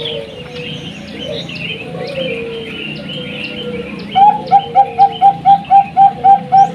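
Zebra dove (Bangkok perkutut) song: about four seconds in, a loud run of short, evenly repeated coo notes starts, about four a second. Small birds chirp throughout, with softer low cooing before the run.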